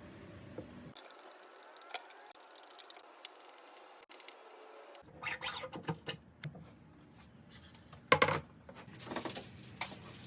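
Workshop handling sounds: scattered clicks, scrapes and knocks of tools and parts being handled. The background changes abruptly about a second in and again about five seconds in, and the knocks come louder and more often in the second half. No power tool is running.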